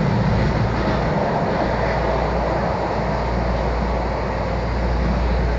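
Miami-Dade Metrorail train running, heard from inside the car: a steady, deep, even running noise with no breaks.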